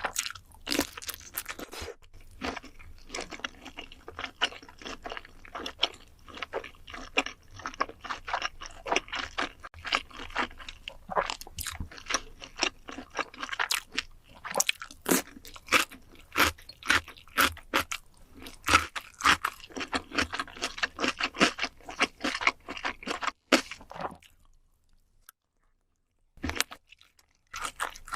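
Close-miked mouth sounds of someone eating: dense, irregular crunching and chewing that stops about three-quarters of the way through, followed by one brief crunch near the end.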